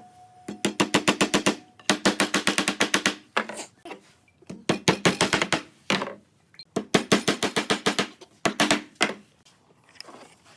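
Five bursts of rapid rattling knocks, about ten a second, each a second or so long, with a steady hum under them and short pauses between bursts, typical of a power tool at work on wood.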